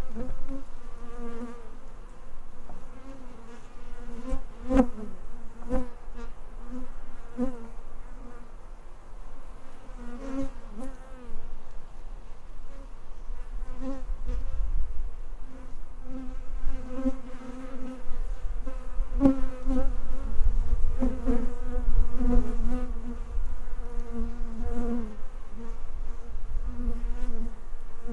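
Honeybees buzzing, a wavering hum with a low rumble underneath that grows louder in the second half, and a couple of sharp clicks about five seconds in.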